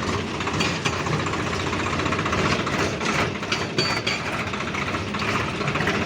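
Heavy diesel engine running steadily, with scattered short knocks over it.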